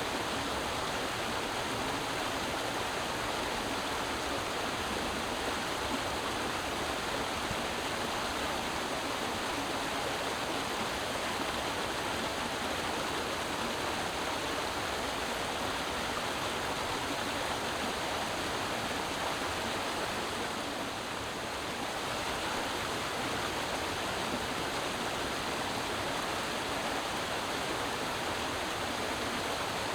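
Creek water running steadily over rocks: a continuous rushing babble.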